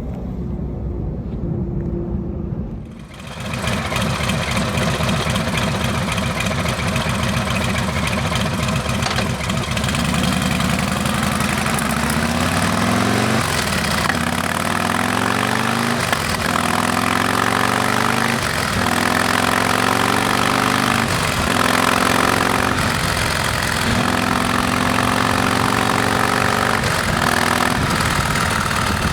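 Harley-Davidson Milwaukee-Eight V-twin running through a Rinehart exhaust: a low, even note at first. A few seconds in, wind noise comes up under it as the bike rides, and later the engine note climbs and drops again and again as it accelerates and shifts.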